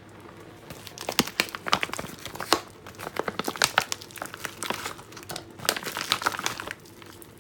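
Packaging crinkling and rustling in irregular bursts as fish is unwrapped by hand, starting about a second in and stopping shortly before the end.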